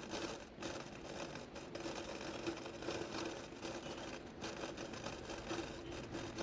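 Embroidery stitching: a needle and thread drawn through fabric again and again in short, irregular strokes, over a steady low hum.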